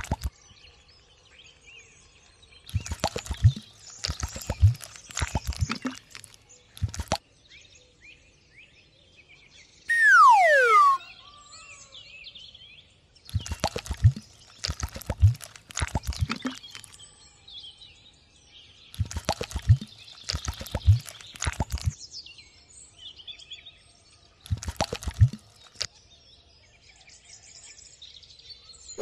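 Wet cement plopping and dripping off a plastic scoop onto wire mesh, in irregular clusters of wet plops. About ten seconds in, a loud whistle-like tone slides down in pitch for about a second.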